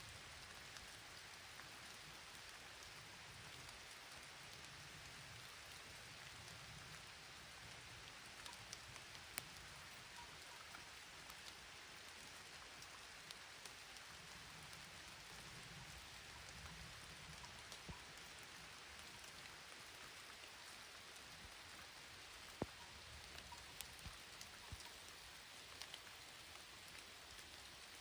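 Faint steady rain, with scattered single drops ticking close by; two sharper drop hits stand out, about nine seconds in and again past twenty-two seconds.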